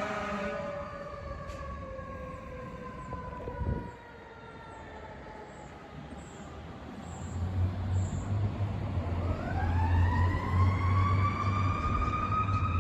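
Federal Q2B mechanical siren winding down, its wail sliding slowly lower in pitch. About nine seconds in it is spun up again, rising steeply to a high wail that peaks and starts to coast down. The fire truck's engine rumbles low beneath the siren in the second half.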